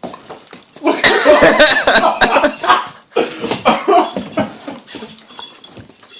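A dog vocalizing while it play-fights with a cat, mixed with a person laughing; the loudest, busiest stretch starts about a second in and eases off after about three seconds.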